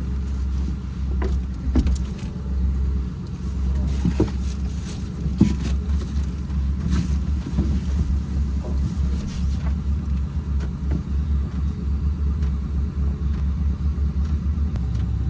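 Pickup truck engine idling, a steady low rumble, with scattered knocks and clicks over it.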